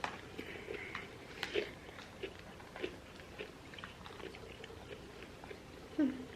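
Quiet eating sounds: soft chewing with scattered, irregular small clicks and taps of utensils and food.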